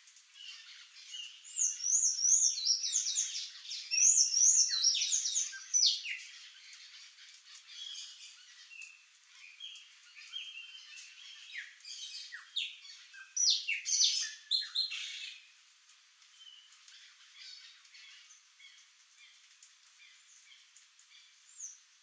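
Birds calling: a run of high, quickly repeated chirps and squawks for a few seconds, scattered quieter calls, then a second loud bout about thirteen to fifteen seconds in.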